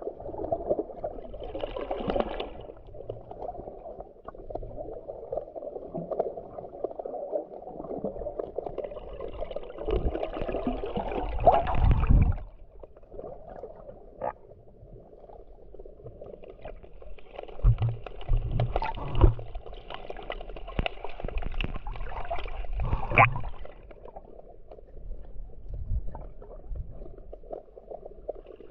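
Sea water sloshing and splashing close to the microphone, in irregular surges with occasional low thuds.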